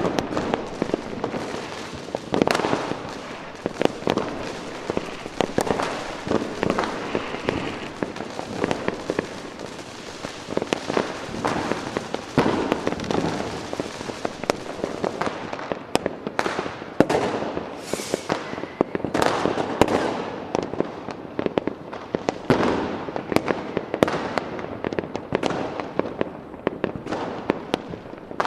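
Fireworks: a dense, continuous barrage of bangs and crackling, many reports a second with no let-up, and a brief whistle of a rising rocket a little after halfway.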